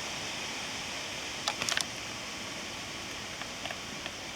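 Steady rushing hiss of wind through the forest, with a quick cluster of sharp clicks about a second and a half in and a few faint ticks near the end.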